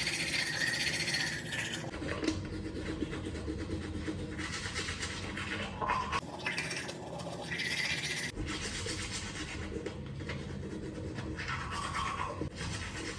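Scratchy brushing strokes close to the microphone, in a few stretches with short breaks.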